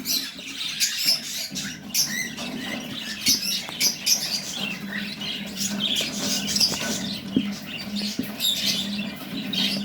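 Cockatiels in a colony chattering, with many short, high squeaky chirps and squawks overlapping, over a steady low hum.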